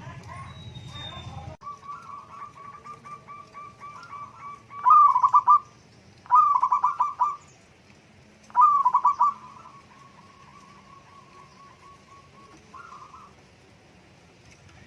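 Zebra dove (perkutut) singing: a run of quick soft notes, then three loud rolling coos, then more soft repeated notes.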